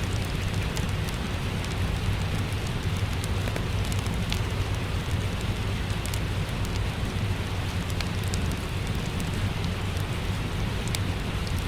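Steady rain with a deep rumble, mixed with the sharp, irregular snaps of a crackling wood fire.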